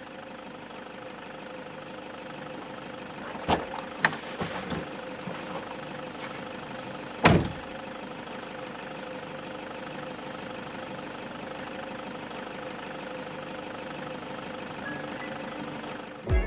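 Steady hum of a car engine heard from inside the cabin, with a few sharp knocks about three and a half and four seconds in and a louder single thump about seven seconds in.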